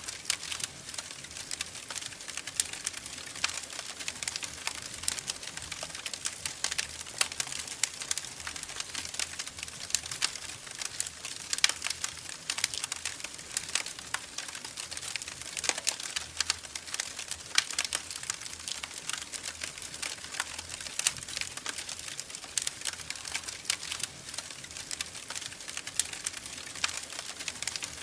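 Wood fire crackling in a fireplace: a steady hiss with irregular sharp pops and snaps, a few louder ones scattered throughout.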